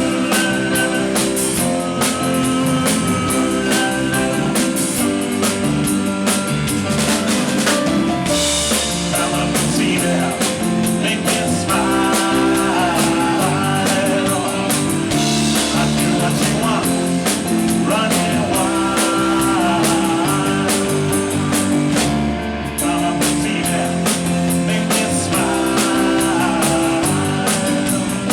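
Live rock band playing a song at a sound check, with a full drum kit and guitars.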